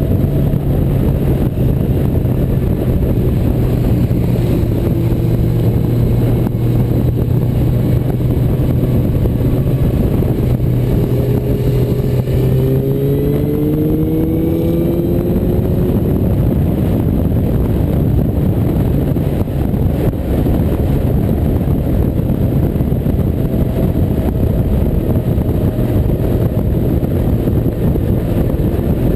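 Motorcycle at road speed: a loud, steady rush of wind and road noise over the engine's drone, whose pitch rises for a few seconds about halfway through.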